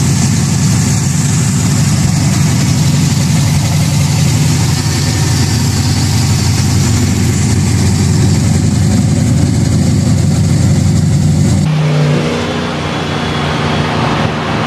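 Chevy LS V8 swapped into a Nissan S13, idling loud and steady with no revs. Near the end it cuts to a different, quieter steady engine drone.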